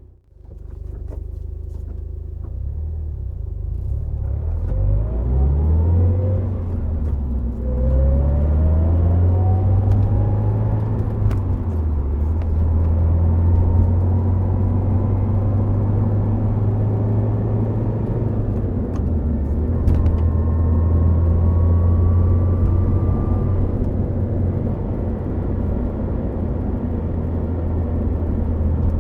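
Subaru WRX STI Spec C's turbocharged flat-four engine with an aftermarket A-RM muffler, pulling up through the gears with quick shifts a few seconds in, then holding a steady cruise over a deep rumble of engine and tyres. It picks up speed again gently a little past the middle.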